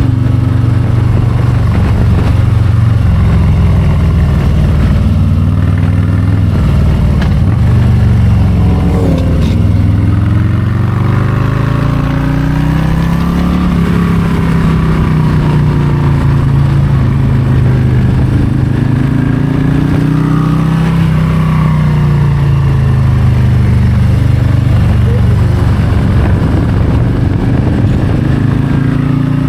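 Harley-Davidson Low Rider ST's Milwaukee-Eight 117 V-twin under way, loud and continuous. The engine note rises and falls again and again as the rider rolls on and off the throttle.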